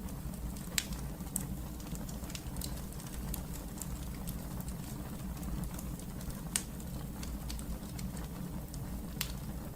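Wood fire burning in a fireplace: a steady low rumble with irregular sharp crackles and pops, the loudest about a second in, and again past the middle and near the end.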